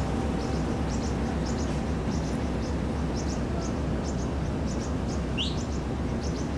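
Small birds chirping, short high double chirps repeating about every half second, with one rising note about five seconds in, over the steady low rumble of the train moving slowly through the rail yard.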